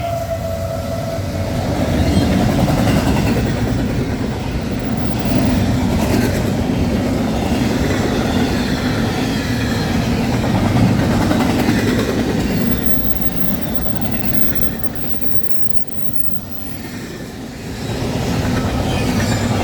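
A CN westbound freight train's cars rolling past on the main line: a steady heavy rumble with wheels clacking over the rail joints. It eases briefly about three quarters of the way through, then builds again.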